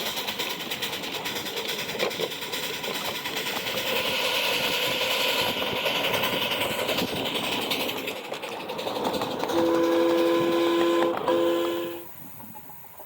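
Miniature 7.5-inch gauge train running along the track, a steady rumble with clicks. Near the end it sounds two blasts of its whistle, a long one then a short one, in a steady chord, and the sound cuts off suddenly just after.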